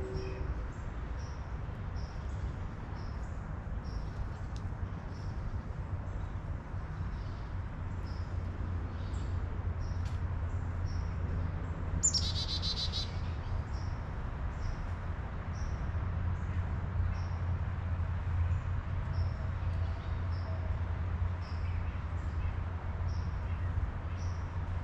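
Small birds chirping: short high chirps repeating about once or twice a second, with one louder, harsher call lasting about a second about halfway through. A steady low rumble runs underneath.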